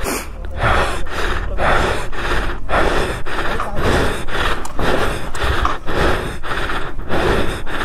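Royal Enfield Interceptor 650 being rolled downhill in gear to bump-start it, the engine turning over with rhythmic chuffing, about three puffs a second, without catching. The rider puts the failure down to a draining battery.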